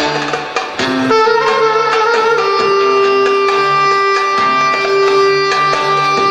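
Turkish art music ensemble playing, with one long held note from about two and a half seconds in over repeating low notes.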